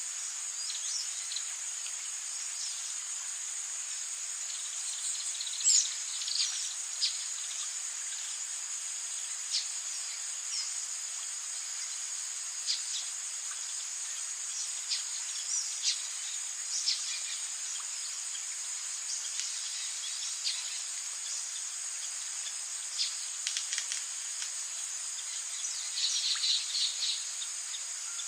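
Rainforest ambience: a steady, high-pitched drone of insects, with short high chirps scattered through it and a quick run of them near the end.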